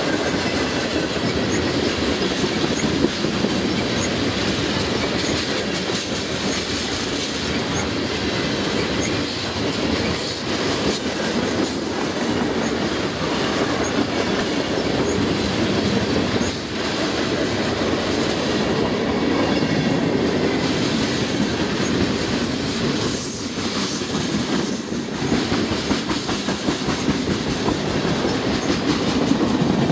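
Freight train cars (tank cars, covered hoppers and boxcars) rolling past close by: a steady rumble of steel wheels on rail with clacking over rail joints and some high wheel squeal.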